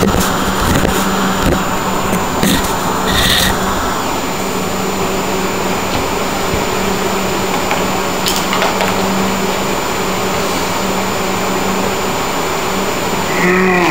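A steady motor-like hum with a constant low tone, broken by a few short knocks and clicks of work going on. Near the end comes a brief squeak.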